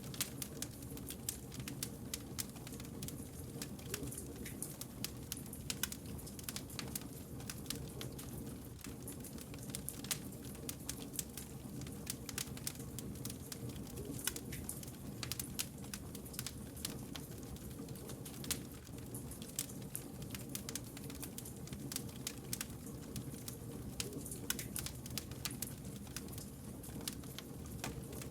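Wood campfire crackling, with many sharp pops and snaps of burning logs over a continuous low rumble of the flames.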